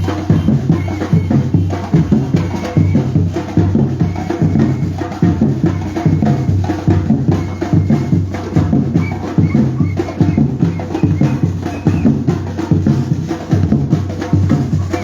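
Batucada percussion band drumming a fast, dense rhythm.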